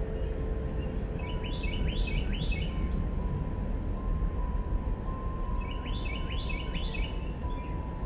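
A songbird sings two short runs of repeated chirping notes, a few seconds apart, over a steady background noise. The last steel tongue drum note fades out in the first second.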